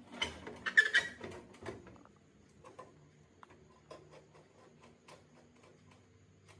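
Hands working on computer parts: a burst of scraping and rattling in the first two seconds, then scattered light clicks of small hard pieces being handled.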